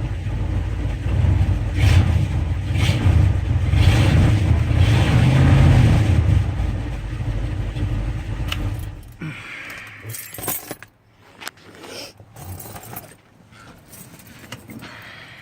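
Ford 400M 6.6-litre V8 of a 1978 F-250 idling after a cold start, then shut off about nine seconds in. Afterwards come scattered light clicks and rattles.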